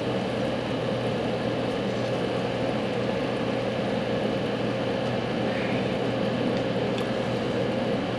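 Steady electric fan and motor hum with a fixed tone, running evenly without change.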